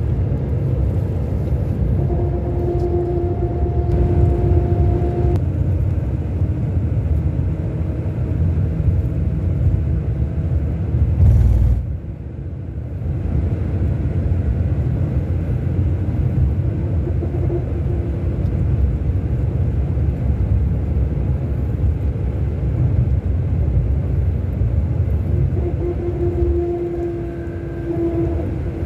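Scania K-400 Euro 5 coach engine running with a steady low rumble and a faint whine that comes and goes. About eleven seconds in there is a brief louder surge, after which the sound drops a little in level and then builds back.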